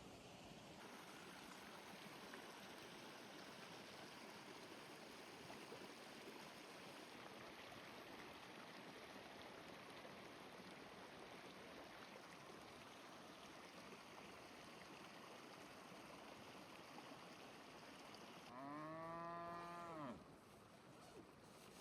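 A cow moos once near the end, a single call of about a second and a half, over a faint steady hiss of rain.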